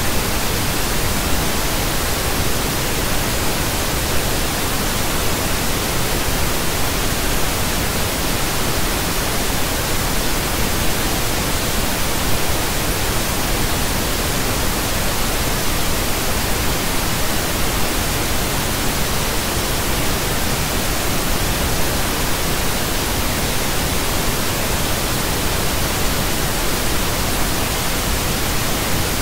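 Pink noise: a steady, even hiss spread across all frequencies, unchanging throughout.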